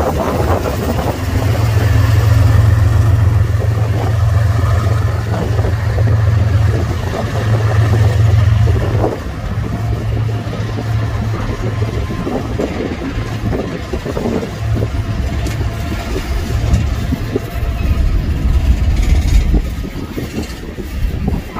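Loud, steady low rumble of a heavy vehicle running, with scattered clicks and knocks over it.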